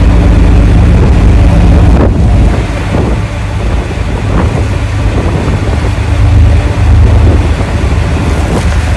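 Wind buffeting the microphone over the steady drone of a tour boat's engine, the low rumble rising and falling in gusts.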